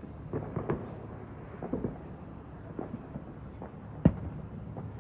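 Fireworks going off: a string of scattered pops and bangs, the loudest about four seconds in.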